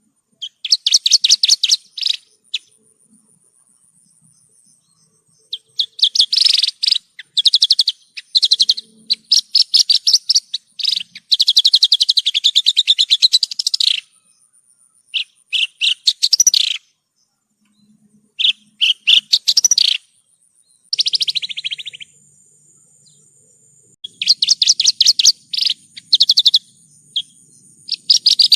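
Javan bush lark (branjangan) singing: bursts of rapid, trilled high notes, some running for several seconds, broken by short pauses.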